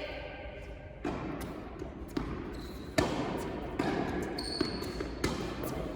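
Tennis ball being struck and bouncing during play: sharp separate knocks roughly once a second, the loudest about three seconds in, with a few short high squeaks in the second half.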